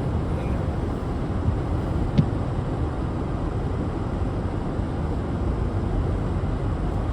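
Steady low road and engine rumble inside the cabin of a car driving on a highway, with a small click about two seconds in.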